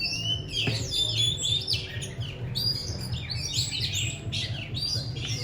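Oriental magpie-robin singing a fast, varied, unbroken run of whistles and chirps, over a low steady hum.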